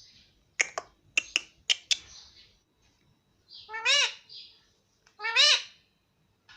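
Indian ringneck parakeet calling: a quick run of five short, sharp chirps, then two longer calls that rise and fall in pitch.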